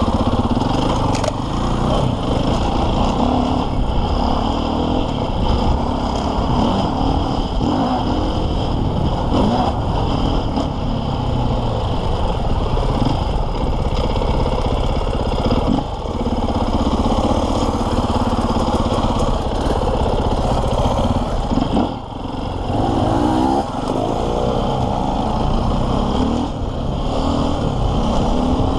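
KTM 450 EXC's single-cylinder four-stroke enduro engine running under throttle while riding off-road, revs rising and falling with the throttle. The revs drop briefly about two-thirds of the way in, then climb again.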